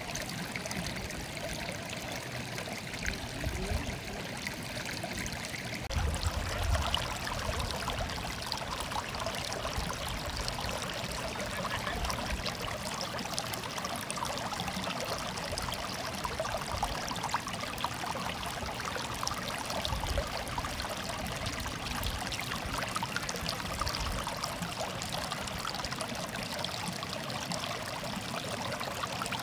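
Stream water murmuring and trickling steadily over stones, a little fuller and brighter from about six seconds in.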